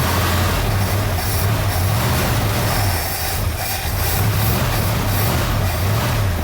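Car engine running steadily, with a strong low throb.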